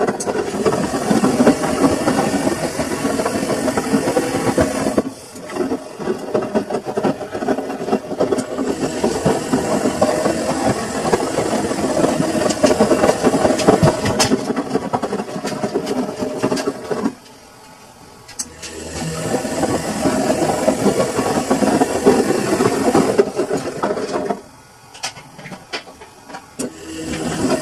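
Samsung washing machine running, its drum turning with an uneven churning and rattling noise that stops briefly three times, as the drum pauses between turns.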